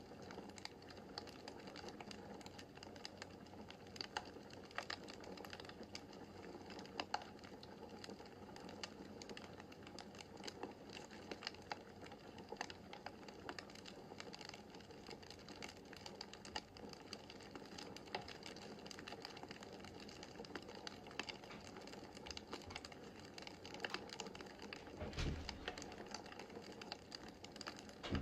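Wood fire crackling in a fireplace: irregular sharp pops and snaps over a steady soft hiss, with one low, dull thump near the end.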